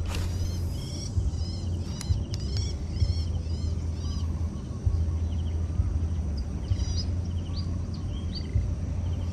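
Birds chirping in short, quickly repeated calls over a steady low rumble, with a brief rush of noise right at the start.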